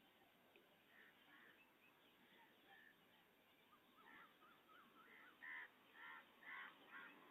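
Near-quiet background with faint bird calls, short and repeated about twice a second, starting about halfway through and growing a little louder near the end.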